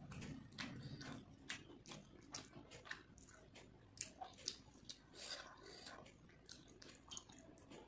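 A person eating rice and chicken curry by hand: wet chewing and lip smacking, heard as irregular short clicks a few times a second.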